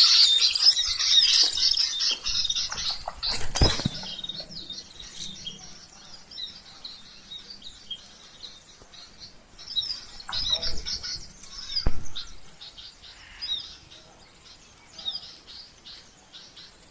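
Small birds chirping rapidly, densely for the first few seconds and then in scattered bursts, with wings fluttering. Two sharp knocks come about four seconds in and again around twelve seconds.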